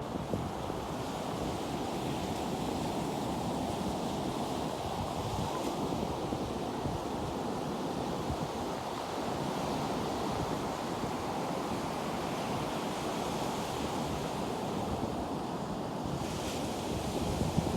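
Ocean surf washing steadily, with wind on the microphone; a brighter hiss of breaking water swells briefly near the end.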